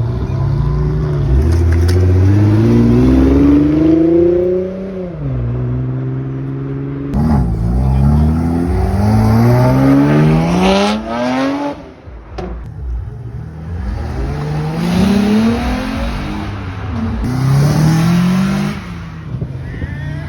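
Sports car engines accelerating hard away from a standstill, revving up through the gears; the pitch climbs and drops back about four times.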